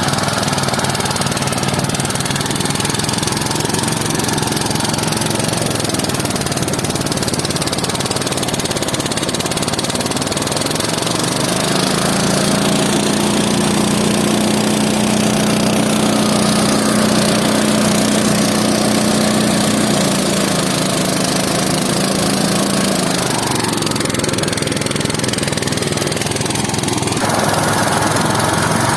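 Engine of a rice harvesting machine running steadily. Its hum rises in pitch a little before the middle and drops back about three-quarters of the way through.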